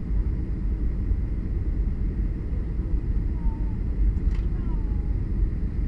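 Steady low rumble of engine and airflow noise inside the cabin of a Boeing 737 in flight. A faint short click comes about four seconds in, with a few faint gliding tones around it.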